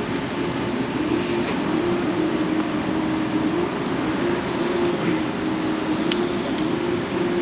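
Steady city traffic noise: a continuous even rumble with a wavering mid-pitched hum, with no clear rise or fall.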